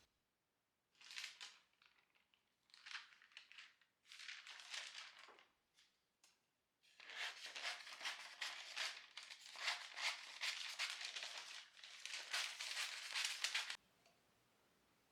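Crinkling and rustling of something being handled: two short spells, then a steady run of fine crackles about seven seconds long that stops suddenly.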